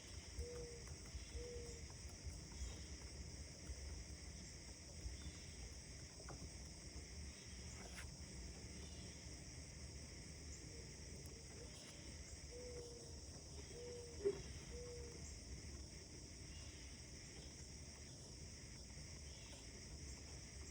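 Faint outdoor dawn ambience: a steady high insect hum with faint distant bird chirps over a low rumble. A low three-note call sounds twice, at the start and about two-thirds through. A single short click about 14 seconds in is the loudest sound.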